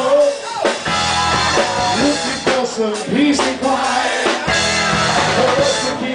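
Live rock band playing a song, with a drum kit keeping a steady beat under guitar and a singing voice.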